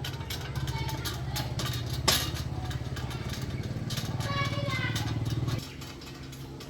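A small engine running with a rapid, even low pulse, which stops about five and a half seconds in. There is a sharp click about two seconds in.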